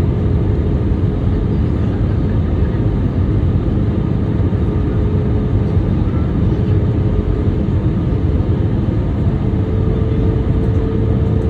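Airliner cabin noise: a steady roar of jet engines and airflow, strongest in the low end, with a held hum that steps slightly higher in pitch near the end.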